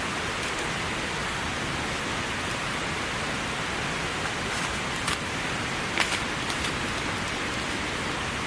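Heavy, steady rain falling, with a few louder drops hitting close by about five and six seconds in.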